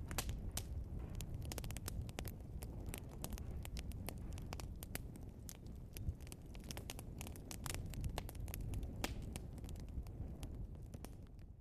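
Burning logs crackling and popping in a fireplace: a quick, irregular run of sharp pops over a low, steady rumble.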